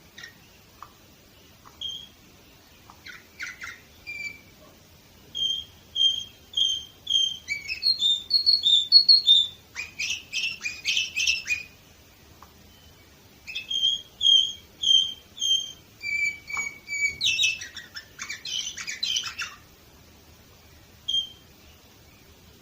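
Canary singing in two bouts. Each bout opens with runs of clear repeated whistled notes, about two a second, and breaks into rapid rattling trills. A short pause falls between the bouts, and a lone note follows near the end.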